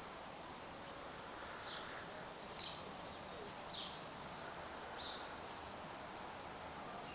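A bird giving short, high, downward-sliding chirps, about five of them roughly a second apart, over faint steady outdoor background noise.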